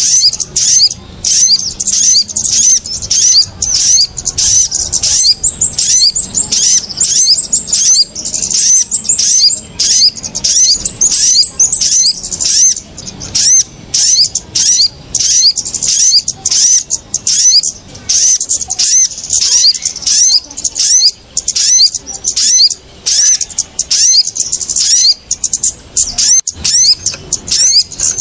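Bird-lure recording of small birds' agitated alarm calls, kemade and sogon (sogok ontong, a spiderhunter): a continuous, dense run of short, high, sharp chirps, several a second, without a break. It is meant to draw small birds down to the lime sticks.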